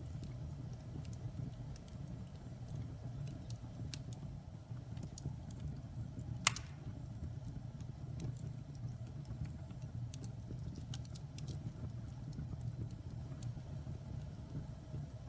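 Wood fire burning in a fireplace: a steady low rumble of flames with scattered crackles, and one louder pop about six and a half seconds in.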